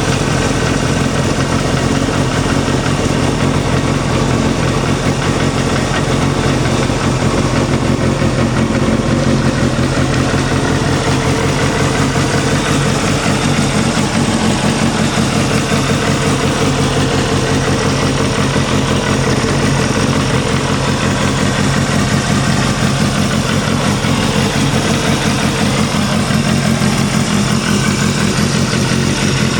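Suzuki GSX250FX (Kawasaki Balius II) 250 cc inline-four engine idling steadily through an aftermarket muffler that the seller takes for an RPM. Its pitch stays level.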